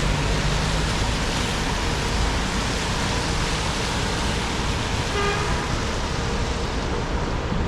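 City traffic on a rain-wet street: a steady wash of engines and tyre hiss. A short pitched tone sounds once, about five seconds in.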